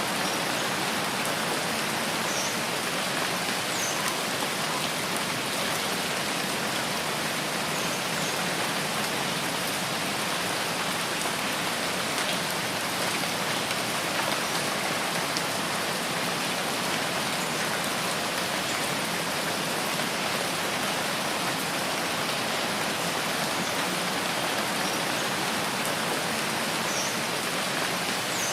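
Steady, even rainfall on foliage in a rainforest, with a few faint, short, high chirps scattered through it.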